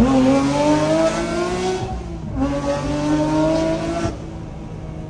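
Porsche 911 GT3 (992.2) naturally aspirated flat-six through a JCR exhaust, accelerating hard at full revs. The pitch climbs, drops at an upshift about two seconds in, and climbs again. About four seconds in the sound falls away suddenly.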